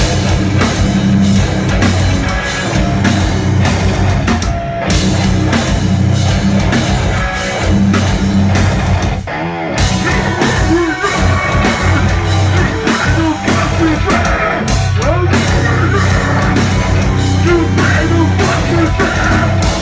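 Live rock band playing loudly, with drum kit, heavy bass and distorted electric guitar; the cymbals drop out briefly twice.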